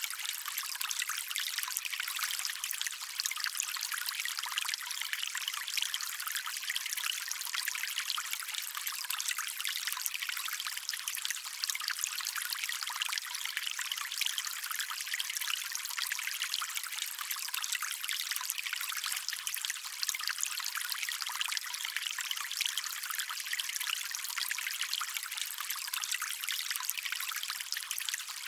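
Small stream trickling and splashing steadily over stones, a bright, even water noise with little low rumble.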